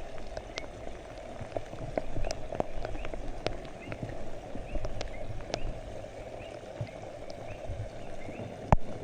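Rain falling, with a steady hiss and scattered sharp drops hitting close by; the loudest drop or knock comes near the end. Faint short chirps repeat in the background.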